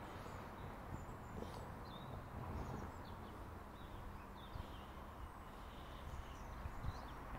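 Faint, scattered bird chirps over a low, steady outdoor background rumble.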